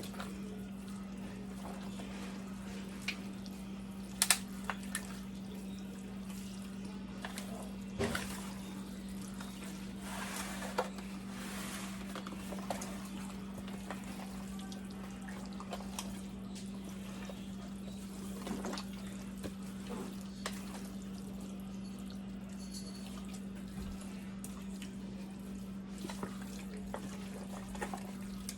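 Hands mixing raw chicken pieces in a wet jerk marinade: scattered soft wet squelches and clicks over a steady low hum.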